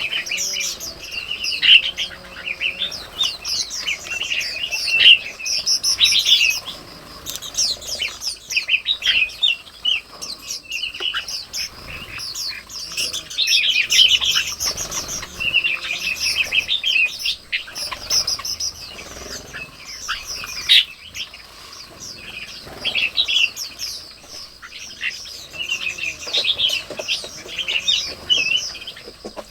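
Many small birds chirping and calling busily, with quick overlapping high chirps that never stop.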